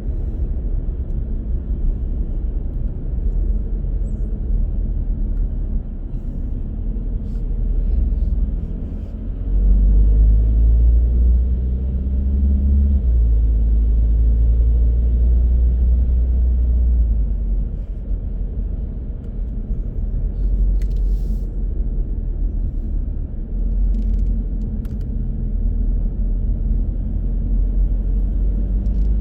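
Car driving on the road: a steady low rumble of engine and tyre noise, swelling louder for several seconds in the middle, with a few faint ticks later on.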